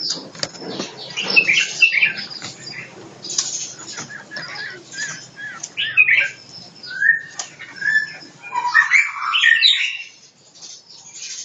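White-rumped shamas chirping and calling, with wings fluttering and scratchy movement sounds throughout. A few short whistled notes come about seven seconds in, then a burst of louder, rapid calls at around nine seconds.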